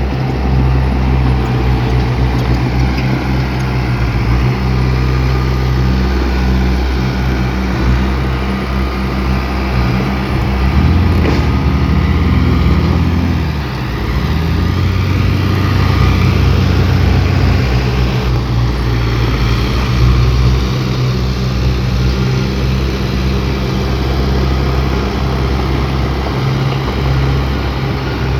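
Diesel engine of heavy earthmoving equipment working: a loud, steady low drone that rises briefly in pitch about eleven seconds in.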